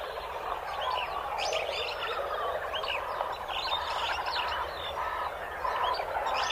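Several wild birds chirping and singing over one another, with quick high chirps and trills layered over lower calls.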